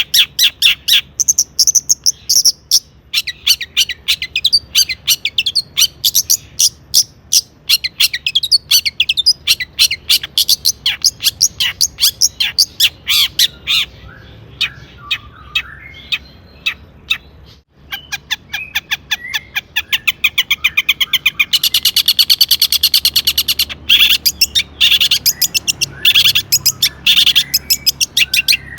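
Long-tailed shrike (cendet) singing hard: rapid strings of sharp, harsh repeated notes and trills. About halfway through it drops to a softer warbling stretch, then bursts back into dense, fast chattering.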